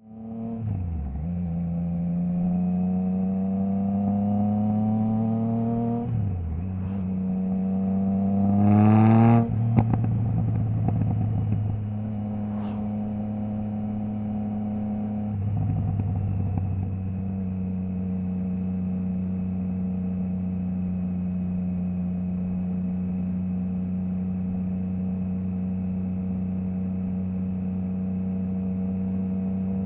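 Triumph Trident 660's inline three-cylinder engine through a Zard stainless full exhaust with the baffle removed, pulling hard with pitch rising, dropping at a quickshifted upshift about six seconds in, and rising again. About nine seconds in the revs cut off sharply with a brief burst as the throttle closes, and from about seventeen seconds the engine runs at steady cruising revs.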